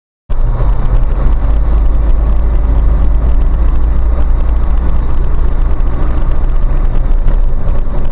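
Steady low rumble of a moving car, engine and road noise, starting abruptly about a third of a second in.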